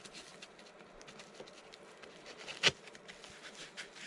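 Handling noise of a FlySky RC transmitter and its packaging: soft rustling and small clicks, with one sharper click about two and a half seconds in.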